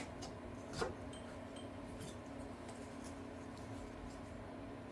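A few faint clicks and taps of parts being handled, the sharpest one just under a second in, over a steady low hum.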